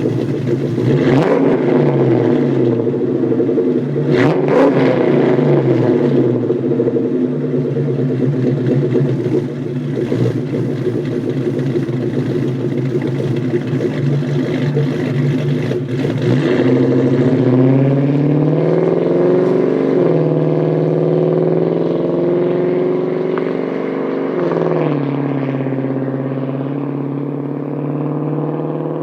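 Cammed 2003 Ford Mustang GT V8 through BBK shorty headers, a Hooker off-road X-pipe and Spintech Super Pro mufflers, pulling away under acceleration. The exhaust note climbs in pitch and drops back with shifts about two thirds of the way in and again near the end, growing duller as the car moves off.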